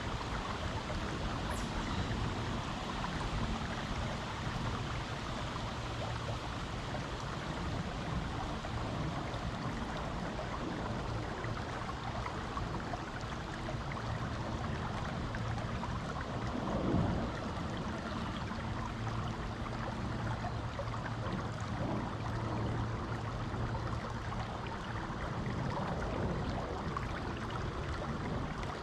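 Creek water flowing steadily over rocks, a continuous rushing, with a brief swell in level about seventeen seconds in.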